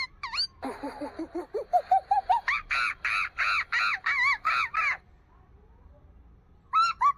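Monkey calling: a run of short hoots climbing steadily in pitch, breaking into a rapid series of loud, high screams. After a brief pause a second burst of screams begins near the end.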